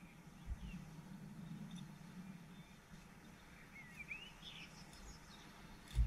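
Quiet garden ambience: small birds chirp a few times about four seconds in, over a steady low hum, with a dull thump shortly after the start and a louder one at the very end.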